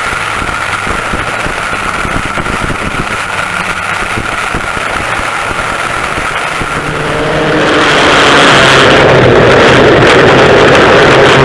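Engines of vintage dual rear-engine racing karts running at speed with a steady high whine. About seven seconds in, the sound swells over a second to much louder and stays loud, as the engines come close or open up.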